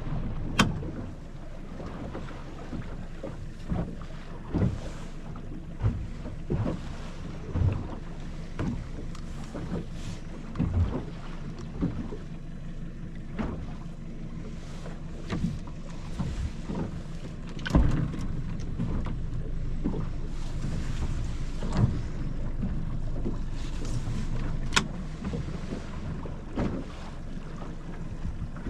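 A boat's motor running steadily with a low hum, with irregular knocks and thumps every second or two.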